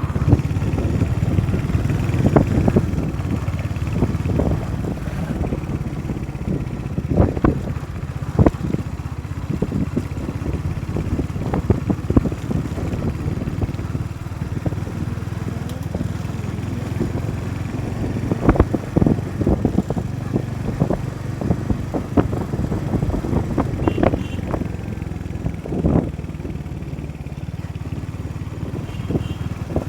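Motorcycle running along a road, with a steady low rumble and scattered short knocks and clatters throughout the ride.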